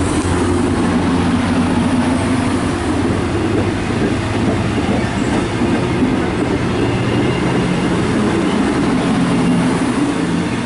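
MARC commuter train's passenger coaches rolling past close by: a steady, loud noise of steel wheels running on the rails.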